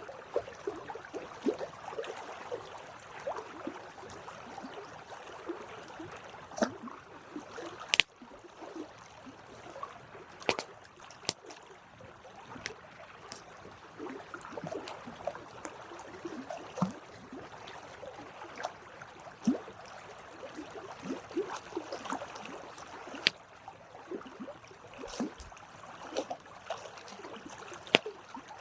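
Campfire burning: wood crackling with a busy hiss and flutter, and irregular sharp pops, a few louder snaps among them.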